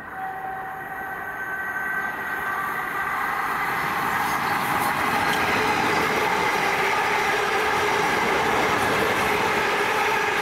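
Passenger train on the main line running through the station at speed: the noise of wheels on rails grows louder over the first few seconds, with a few thin high ringing tones near the start, then holds as a steady loud rush as the carriages pass.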